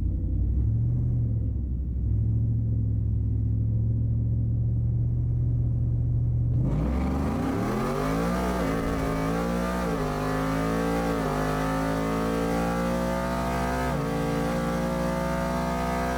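Drag-racing vehicle engine: a steady low rumble, then about six and a half seconds in it suddenly opens up and climbs in pitch under hard acceleration, with a few brief drops in pitch along the way.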